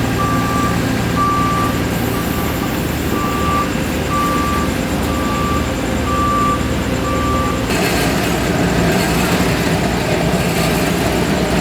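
Reversing alarm on a heavy paving machine beeping about once a second over a running engine. About eight seconds in the beeping stops and a rougher, fuller engine noise takes over.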